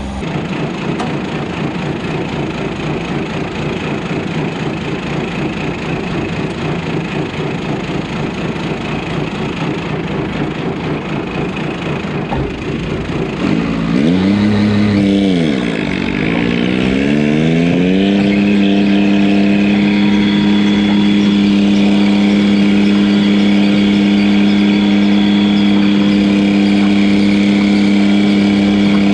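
Diesel garden pulling tractor engine running hard with a rough, uneven note. About halfway through its pitch dips and swings back up, then it holds a steady high pitch.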